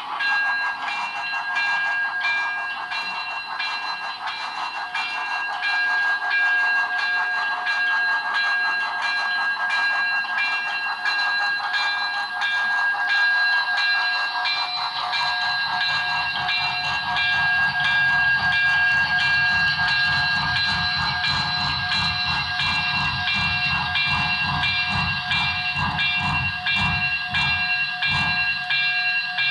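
Sound-equipped HO-scale Broadway Limited 2-8-0 steam locomotive running, its Paragon 3 sound system playing steam-locomotive sounds: steady high tones over a fast even chuffing rhythm. A low rumble joins about halfway through.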